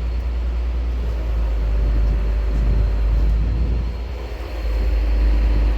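Steady engine drone with a heavy low rumble, typical of the hoisting crane's engine running while the load is lowered. It dips briefly about four seconds in.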